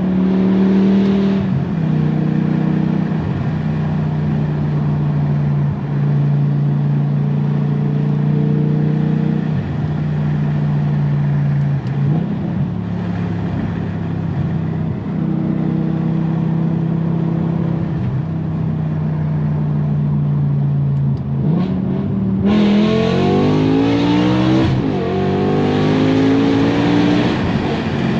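Straight-piped BMW M6's S85 5.0-litre V10 running loud at steady revs under light throttle, with brief dips as it shifts. About three-quarters of the way through it opens up into hard acceleration, the note climbing steeply and breaking at gear changes.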